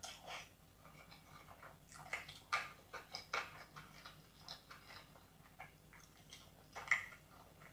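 Close-miked chewing of a mouthful of biryani: irregular wet smacks and small crunches, a few sharper ones standing out, the loudest near the end.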